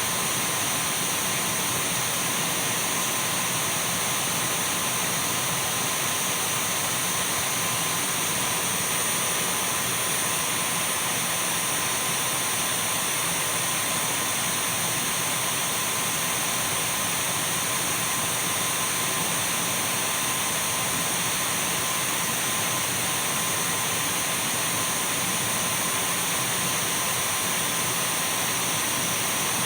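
Dyson V12 cordless stick vacuum running at one steady speed: an even rush of airflow with a thin, high steady whine on top and a fainter mid-pitched tone, with no change in pitch or level.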